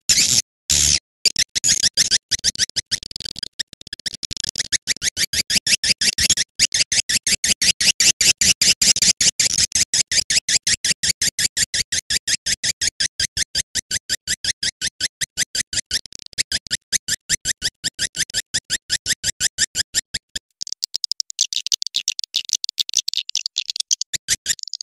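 Swiftlet lure call playing: a fast, steady train of sharp, high-pitched chirps, several a second. About twenty seconds in, it changes to a fainter, hissing twitter.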